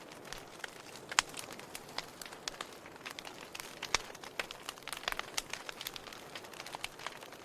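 Wood fire burning, crackling: irregular sharp pops and snaps over a steady soft hiss, with louder pops about a second in and about four seconds in.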